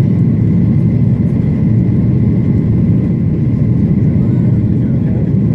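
Steady cabin noise of a Boeing 737-800 airliner: a constant deep engine rumble, with a faint high steady tone, heard from a window seat.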